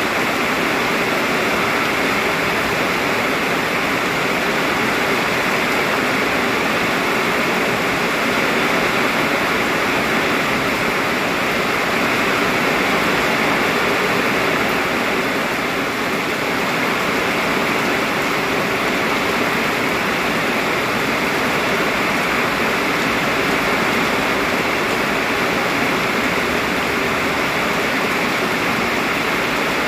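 Very heavy rain pouring steadily, a dense even hiss with no separate drops or gusts standing out.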